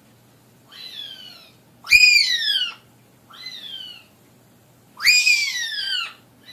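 Parrot calling: four drawn-out calls that swoop up and then slide down in pitch, loud and softer by turns.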